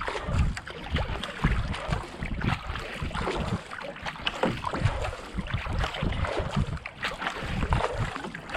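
Racing kayak paddled at a steady racing pace: the double-bladed paddle catches and splashes through the canal water in a regular stroke rhythm.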